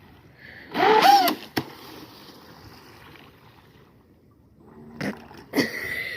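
Electric motor of a TFL Zonda RC speedboat whining, with its pitch surging up and back down in about half a second as the boat leaps out of the water and the propellers unload, followed by a sharp slap as it lands. More loud bursts of the boat's sound come near the end.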